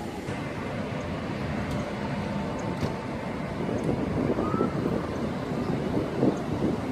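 Steady low rumble of passing vehicles with wind noise on the microphone, growing a little louder near the end.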